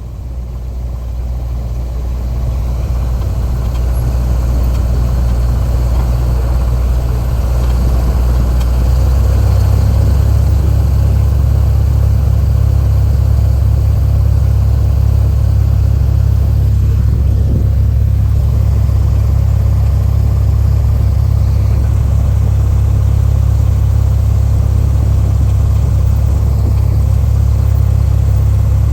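Light aircraft piston engine running, heard from inside the cockpit. It grows louder over the first ten seconds or so, then holds a steady drone.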